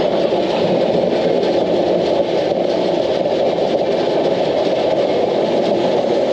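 Steady running noise of a moving passenger train, heard from an open doorway of the coach: wheels rumbling on the rails at a steady speed.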